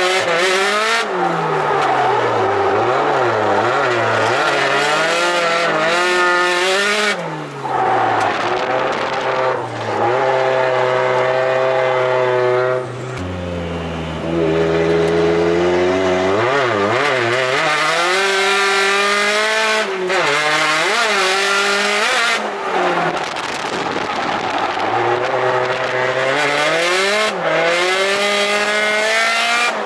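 Turbocharged car engine driven hard on track, its revs climbing and dropping again and again, with tyre noise underneath. About halfway through, the revs hold briefly low and steady.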